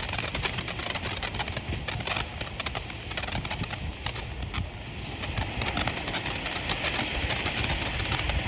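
Ground fountain firework burning: a dense run of crackling pops for the first few seconds, then a steady spraying hiss that grows louder from about five seconds in.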